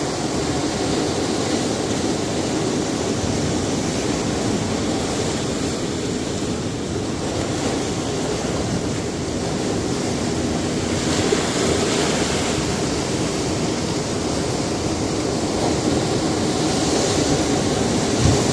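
Sea surf on a rocky shore: a continuous rush of waves, with waves breaking more loudly about eleven seconds in and again near the end.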